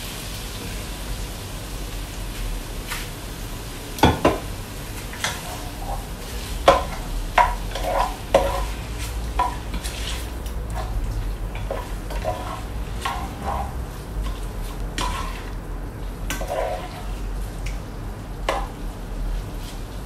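Diced pork frying with a steady sizzle in a pot as soy sauce goes in. From about four seconds in, a spatula stirs it, scraping and knocking irregularly against the pot.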